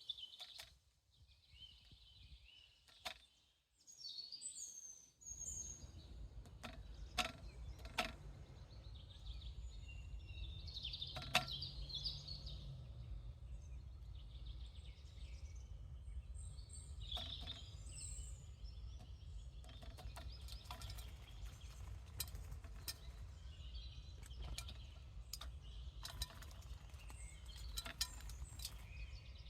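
Outdoor ambience with birds chirping and a dozen or so sharp single taps at irregular intervals, over a steady low rumble that sets in about five seconds in.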